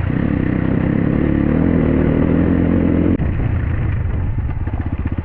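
Dirt bike engine pulling steadily under throttle. About three seconds in the throttle shuts suddenly and the engine drops to a slow, even putter near idle.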